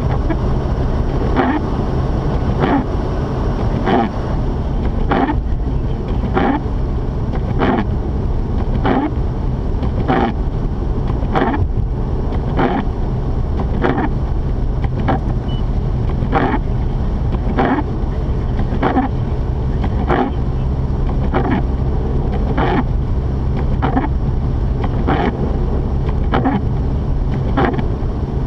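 Steady low drone of a Mazda RX-8 being driven, heard from inside the cabin, with windshield wipers sweeping the glass evenly about once every 1.25 seconds.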